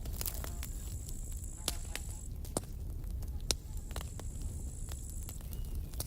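Campfire burning: irregular sharp crackles and pops over a steady low rumble. A faint high whistle comes in twice, for about two seconds each time.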